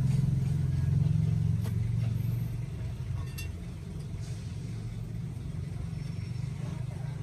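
A motor vehicle engine running close by, as a steady low hum that fades over the first few seconds and then holds at a lower level. A few faint clicks from a socket wrench are worked on a bolt over it.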